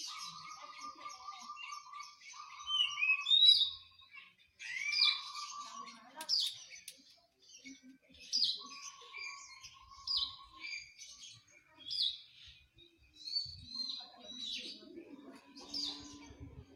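Songbirds singing a varied run of short whistled phrases and chirps, with short buzzy trills lower in pitch during the first few seconds and again about nine seconds in.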